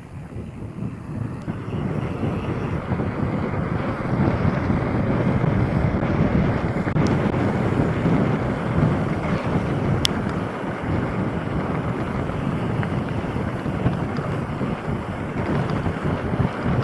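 Wind rushing over the microphone of a mountain biker's camera while riding, a steady rough noise that builds over the first few seconds, with a single sharp click about ten seconds in.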